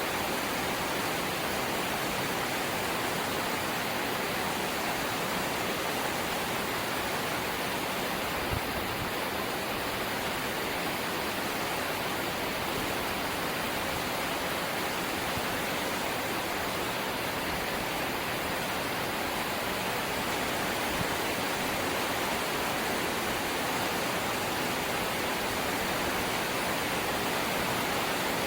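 Heavy rain falling steadily on a corrugated zinc roof, a dense, even hiss with no let-up. A single small knock sounds about eight seconds in.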